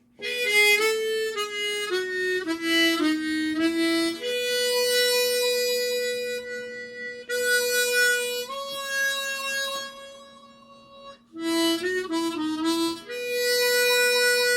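Tremolo harmonica playing a slow go-go intro melody solo in single notes, shaped with hand-cover technique: short stepped phrases, several long held notes, and a quick run of short notes near the end.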